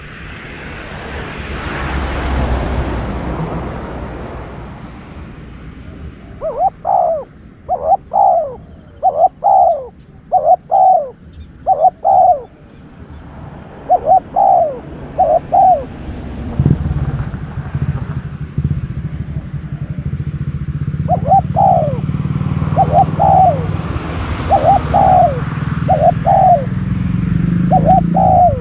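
Spotted dove cooing: bouts of short, arched coo notes, many in quick pairs, in two series with a pause between. A vehicle passes near the start, and a low engine drone sets in about halfway through and continues under the later coos.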